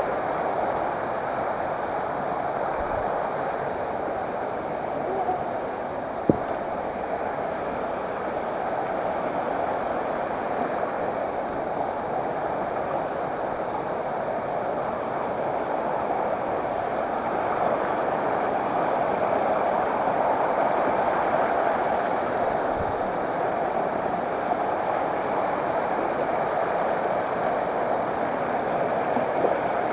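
Steady rush of flowing water from a stream or waterfall, with one sharp click about six seconds in.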